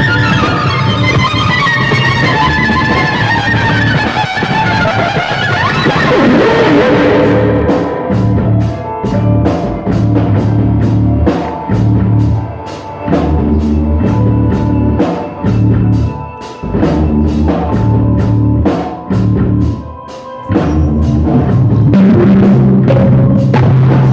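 Rock music with drum kit and guitar. It opens with sweeping, falling tones, and about eight seconds in the drums take up a steady beat under the bass and guitar, with a few short breaks.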